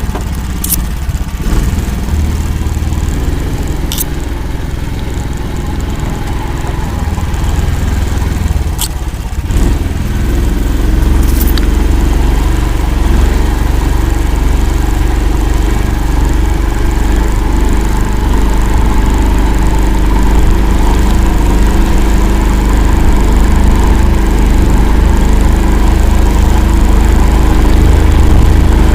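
Engine of an Akula all-terrain vehicle running steadily, growing louder and heavier about ten seconds in, with a few brief sharp clicks or knocks in the first dozen seconds.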